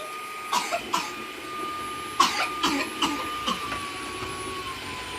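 Dreame wet/dry mop vacuum running with a steady high whine that drops slightly in pitch past the middle, with about six short sharp sounds, like coughs or knocks, over it in the first few seconds.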